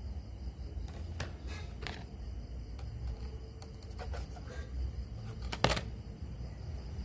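Scattered light clicks and taps of small parts and tools being handled, a few close together and the sharpest a little after two-thirds through, over a low steady hum.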